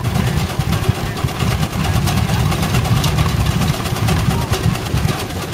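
Half-scale Case 65 hp steam traction engine working under load, its exhaust beating in quick, even strokes over a steady low rumble.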